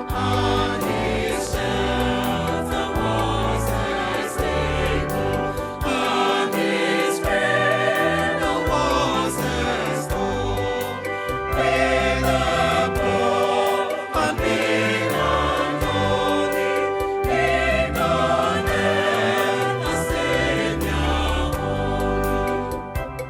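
Gospel choir singing with instrumental backing, a bass line and a steady beat.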